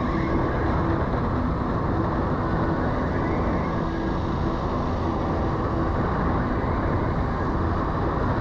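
Steady rumble of a vehicle travelling along a road, mostly low road and wind noise with no breaks.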